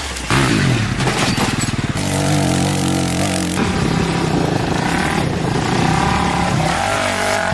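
Dirt bike engines revving, the pitch rising and falling with the throttle, with abrupt jumps to a different engine sound about two seconds in and again about three and a half seconds in.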